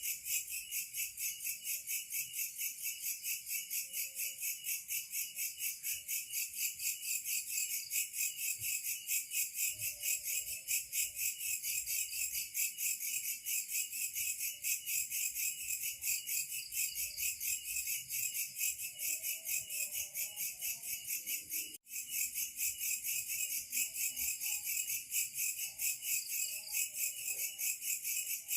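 Chorus of insects, such as crickets or katydids, trilling in a steady, fast, high-pitched pulse, with faint scattered lower calls beneath. The sound breaks off for an instant about three-quarters of the way through, then carries on.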